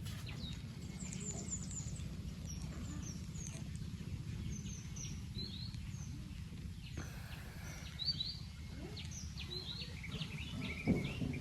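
Small birds chirping: many short, high chirps scattered through the whole stretch, thickest near the end, over a steady low hum.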